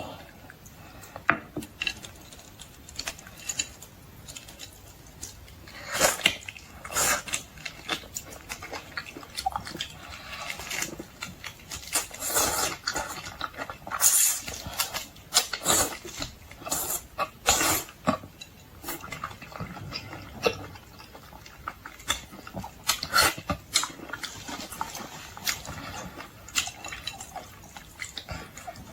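Close-up eating of boiled seafood: irregular wet smacks, clicks and crunches of chewing, some sharp and loud, scattered through the stretch and thickest in the middle.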